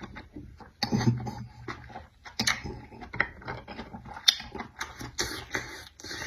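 A person eating: chewing and wet mouth noises with irregular sharp clicks and smacks, the loudest about four seconds in.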